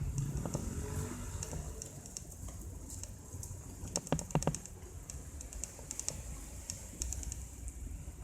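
Mountain bike riding on a paved road: a low rumble with irregular light clicks and rattles, and a quick cluster of sharper knocks about halfway through.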